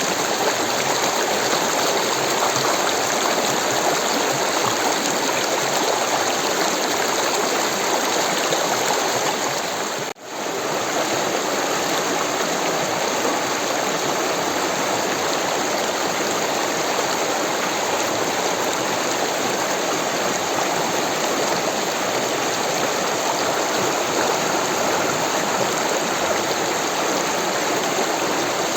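Rushing water, a steady, even wash of noise. About ten seconds in it briefly drops away and comes straight back.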